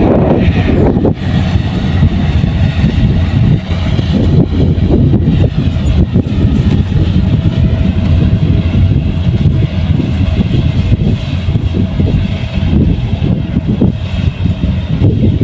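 Kubota rice combine harvester running steadily while harvesting, a dense low rumble with a faint steady whine above it.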